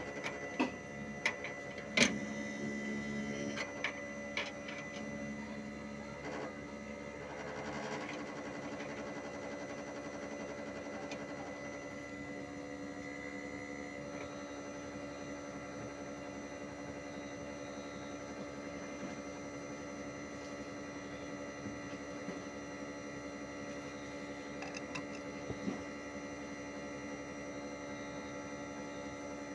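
Hitachi 1-ton split AC outdoor unit running, a steady hum made of several held tones, with a few sharp knocks in the first four seconds.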